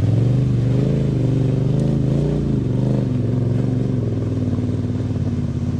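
Motorcycle engine running near idle. Its pitch rises and falls a few times in the first three seconds, then settles to a steady note.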